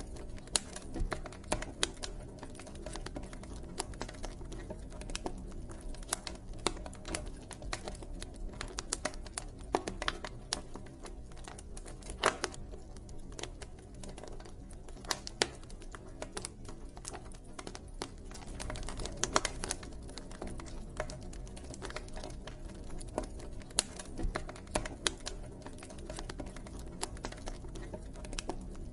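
Campfire burning with irregular crackling and occasional louder pops over a low, steady rumble of the flames.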